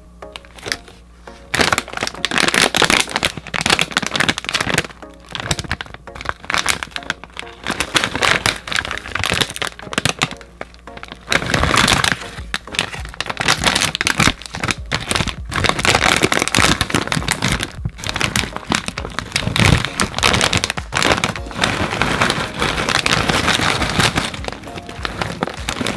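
Plastic snack wrapper being handled, loud, dense crinkling and crackling that starts about a second and a half in and keeps up almost to the end, over background music.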